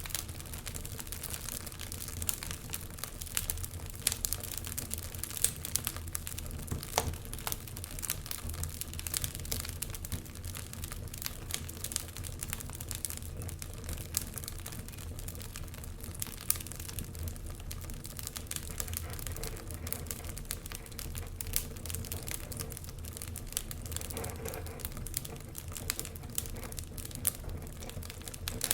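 Wood fire burning in a fireplace: a continuous, irregular crackling of small pops and snaps over a low steady rumble of the flames.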